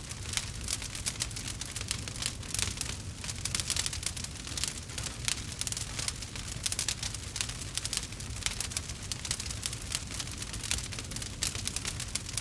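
Wood fire crackling, with dense, irregular sharp crackles over a steady low rumble.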